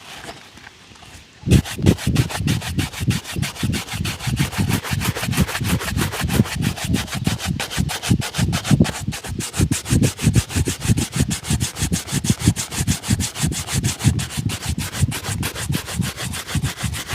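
Shoe being rubbed in rapid, even back-and-forth shine strokes, a steady scrubbing rhythm that starts about a second and a half in and stops abruptly near the end.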